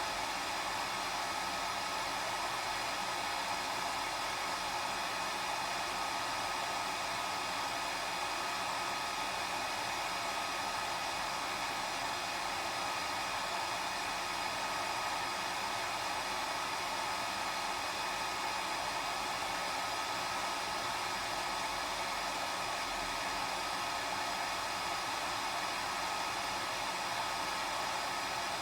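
Electric hair dryer running steadily: an even rush of blown air with a faint steady whine from the motor.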